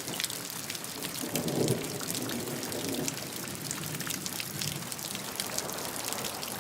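Steady rainfall with many separate drop strikes. A low rumble of distant thunder rises about a second in and fades after about two seconds.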